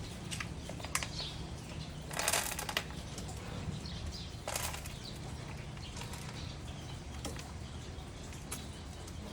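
Pigeons flapping their wings: a burst of flapping about two seconds in and a shorter one about four and a half seconds in, with scattered light taps over a steady low hum.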